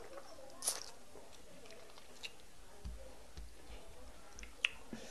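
Close-miked chewing and wet mouth smacks of a person eating soft fufu and egusi soup by hand, with scattered short clicks. The sharpest click comes just before the end.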